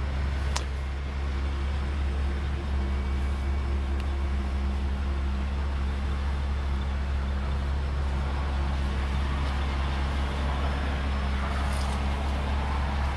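Vehicle engine idling, a steady low hum that stays even throughout. One sharp click about half a second in.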